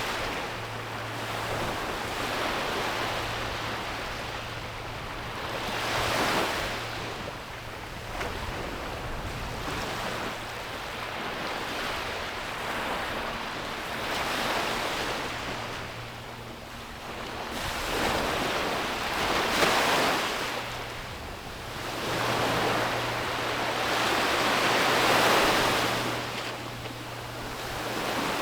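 Sea waves breaking on a beach and washing back, the rush swelling and fading again every few seconds, with the biggest surge near the end. A faint low steady hum sits under it at times.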